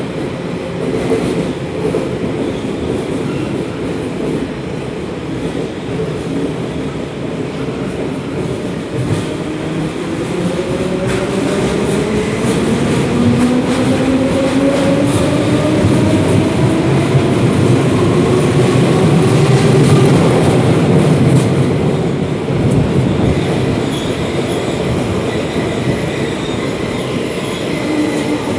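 Running noise heard inside a class 472 S-Bahn electric multiple unit, with the rumble of wheels on rail. From about eight seconds in, a motor whine climbs steadily in pitch as the train accelerates and grows louder, then fades out after about twenty seconds as the power comes off.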